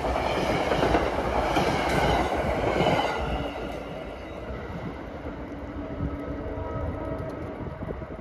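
NJ Transit commuter train rolling past on the rails, its wheels clattering. It is loud for the first three seconds or so, then fades as the train moves away.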